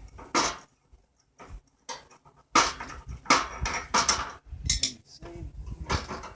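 Metal clattering and scraping in several short bursts, the longest near the middle.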